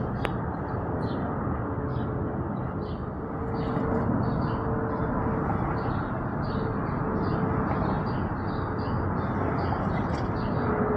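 Steady roar of a jet aircraft, swelling slightly about four seconds in. A bird chirps over it, two to three short chirps a second.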